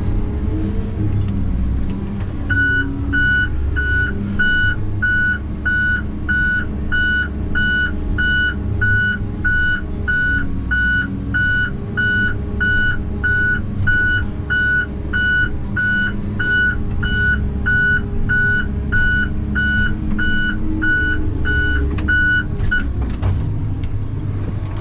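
A heavy vehicle's back-up alarm beeping steadily, about two beeps a second, while the vehicle reverses with its engine running underneath. The beeping starts a couple of seconds in and stops shortly before the end.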